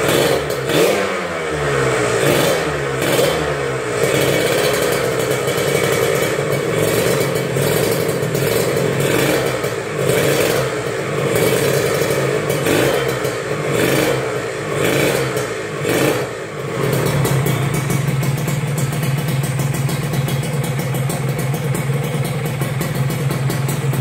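Kawasaki Ninja 150 two-stroke engine running through an aftermarket racing exhaust, revved up and down in repeated blips, then settling into a steady idle about 17 seconds in.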